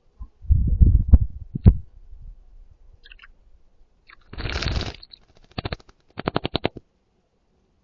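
A garden bird bathing in a shallow terracotta bowl of water: a short splash, then a quick rapid fluttering of wet wings. A few low thumps come first.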